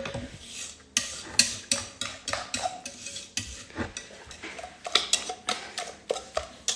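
A utensil knocking and scraping against a heavy pot as thick custard is scooped and poured out of it, in irregular clinks and taps, some with a short metallic ring.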